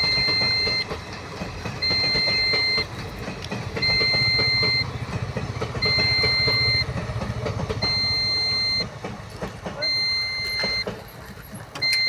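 Railway level-crossing warning alarm beeping: one steady high electronic tone about a second long, repeating every two seconds, six times. A low rumble runs underneath and is strongest in the middle.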